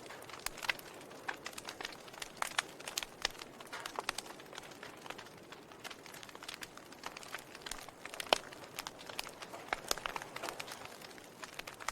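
Wood fire crackling in a fireplace: irregular sharp pops and snaps over a soft hiss of burning, the loudest snap a little past eight seconds in.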